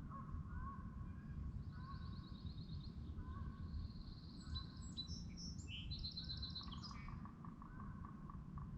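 Wild birds singing by a lake: one repeats a short rising note about twice a second, while another sings a higher, rapid trilling song for several seconds in the middle, over a steady low rumble.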